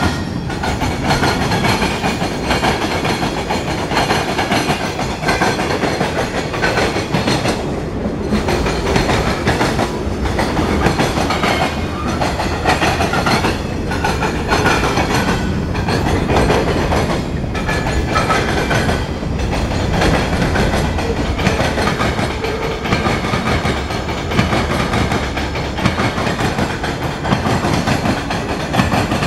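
Freight cars of a mixed freight train, mostly covered hoppers, rolling past: a loud, steady rumble and clatter of steel wheels on the rails.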